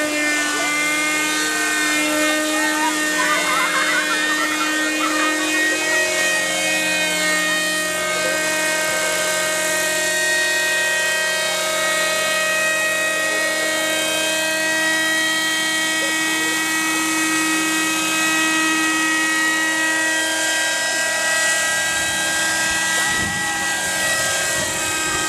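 Helicopter engine and rotor running steadily, a continuous drone with a constant high whine that holds its pitch.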